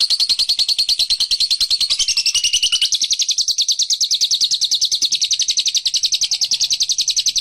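Lovebird in a long, unbroken ngekek: a fast, steady trill of high chirps, about a dozen a second.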